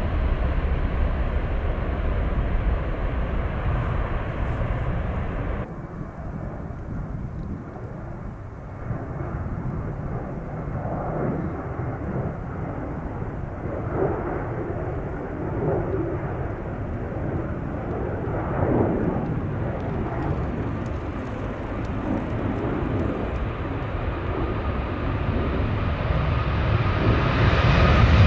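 Passing airliners' jet engine noise: a loud, steady rumble that cuts off abruptly about a fifth of the way in. Quieter engine noise follows, then builds again near the end with a high whine as the next aircraft draws close.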